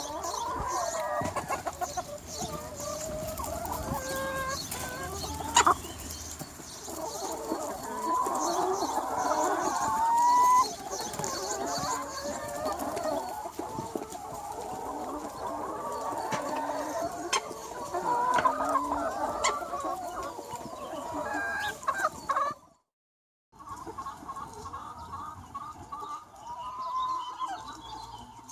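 Large free-range chicken flock, many hens clucking and calling over one another, with a rooster crowing. The sound drops out for about a second roughly three-quarters of the way through, then the flock continues.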